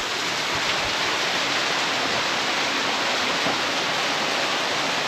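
Large waterfall roaring: a steady, even rush of falling water.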